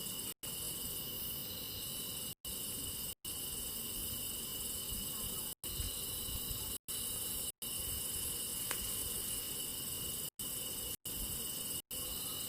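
Steady chorus of crickets chirring, over a faint low noise. The whole sound cuts out to silence for an instant about nine times, every second or two.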